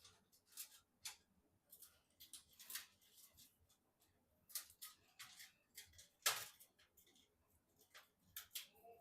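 Faint, scattered clicks and rustles of computer parts and packaging being handled during assembly, with one sharper click about six seconds in.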